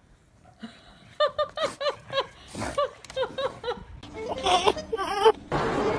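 A person giggling in a quick run of short, high-pitched bursts, starting about a second in, then louder, messier laughter toward the end.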